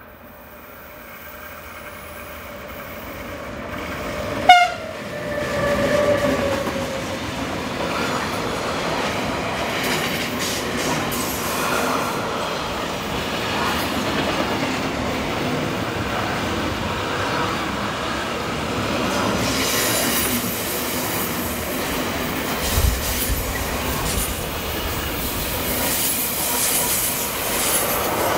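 Electric freight train approaching and passing: the rumble grows for a few seconds, then the locomotive gives one short, sharp horn blast about four and a half seconds in. A steady rumble and clatter of intermodal container wagons rolling by follows, with a brief thump a little before the end.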